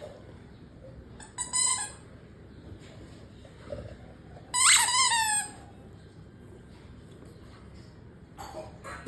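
Baby chick peeping: two short, high-pitched calls that fall in pitch, one about a second and a half in and a louder one near the middle.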